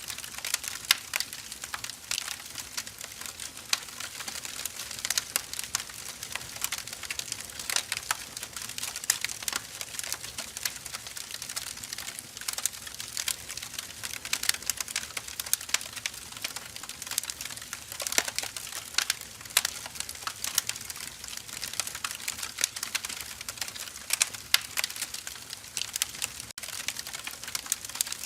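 Firewood burning, crackling steadily with many irregular sharp snaps and pops over a soft hiss.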